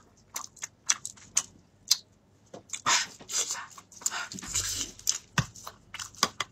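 Close-up wet chewing and lip-smacking on a mouthful of fatty braised pork belly: many irregular short smacks, with a couple of longer breathy stretches about three and four and a half seconds in.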